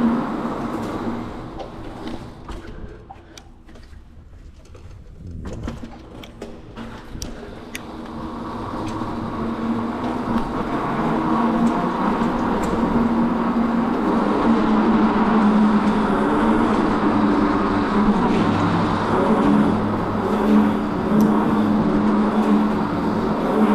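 Vehicle running with a steady drone. It drops away over the first few seconds, then builds back up to a steady loud level from about eight seconds in.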